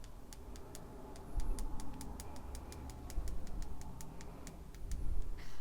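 Rapid light ticks, about five a second, of a paintbrush loaded with white acrylic paint being tapped to flick splatters of paint onto the page.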